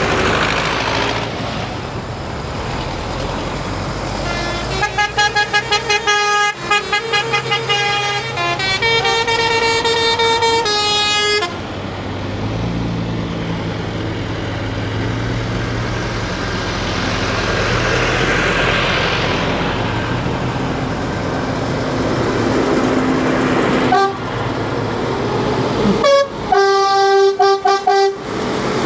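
Tractors passing with their engines running, and a horn tooted in quick runs of short blasts at a few different pitches, first from about five seconds in for several seconds, then again near the end.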